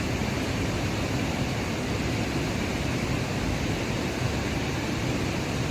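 Steady rushing of a waterfall close by, an even roar of falling water that does not change.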